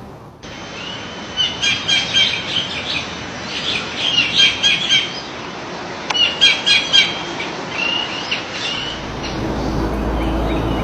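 Songbird singing in several bursts of rapid, repeated short chirping notes.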